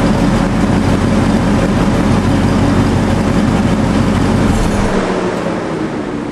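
1990 Corvette ZR-1's LT5 V8 running steadily through Stainless Works long-tube headers and a Corsa exhaust, then cutting out about four and a half seconds in as the engine is switched off.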